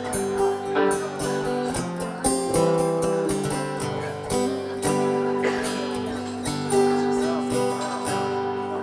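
A live band playing the instrumental intro of a song, led by strummed acoustic guitar, with sustained held notes and steady rhythmic strokes.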